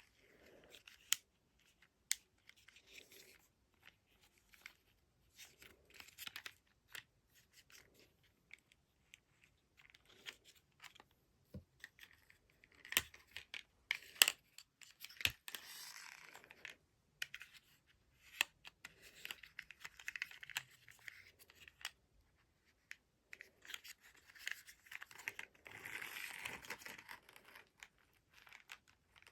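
Scattered sharp clicks and scratchy, tearing-like rustles, with a few longer rustling stretches around the middle and near the end.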